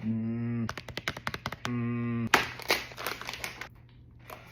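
A person humming a flat, closed-mouth "mmm" twice while tasting a snack, with crisp crackling clicks between and after the hums.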